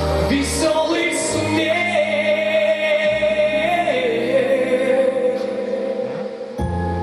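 Pop song with backing music, a singer holding one long note that steps down to a lower pitch about four seconds in.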